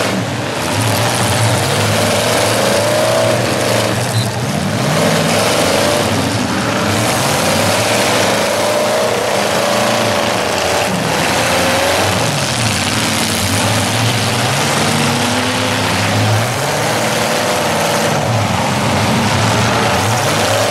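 Several demolition derby cars' engines revving hard at once, their pitches rising and falling over one another as the cars rev, reverse and ram each other on the dirt.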